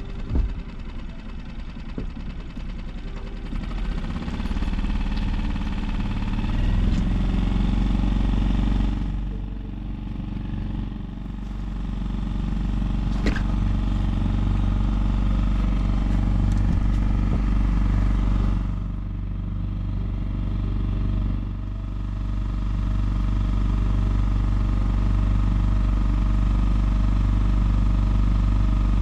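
The Hurley 20 sailboat's small engine running under way as the boat motors off. It picks up and gets louder a few seconds in, eases off twice, then runs steadily.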